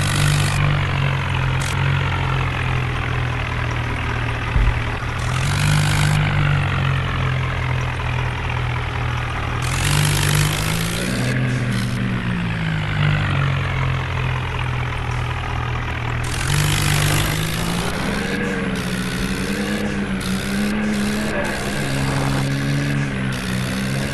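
Swaraj tractor's diesel engine running, its pitch rising and falling as the engine speed changes, with a few short bursts of rushing noise.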